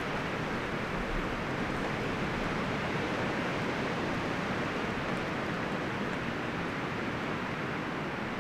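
Wind blowing steadily through forest trees, rustling the leaves and branches in an even, unbroken rush.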